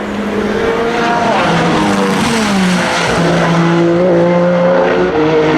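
Peugeot 9X8 Le Mans Hypercar's twin-turbo V6 running at racing speed. Its note drops in pitch about two seconds in, then holds steady.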